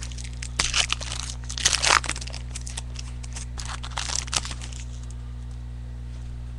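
Plastic packaging and trading cards being handled, with crinkling and rustling in irregular bursts for about the first four and a half seconds. A steady low hum runs underneath and is all that is left near the end.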